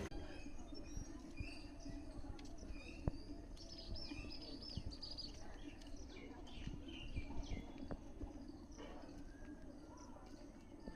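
Small birds chirping and calling: many short, high chirps come one after another, some in quick runs, over a faint steady background hum.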